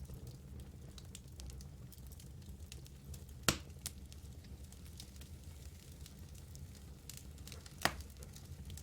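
Wood fire burning in a fireplace: a steady low rumble of the flames with scattered small crackles and two sharp, loud pops of the logs, about three and a half seconds and eight seconds in.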